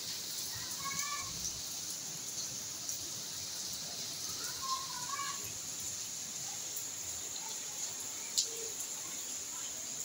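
Steady hiss of rain with a few short, high chirping calls about a second in and again about five seconds in, and scattered light clicks.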